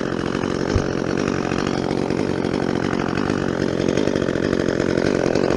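Chainsaw running steadily without letting off.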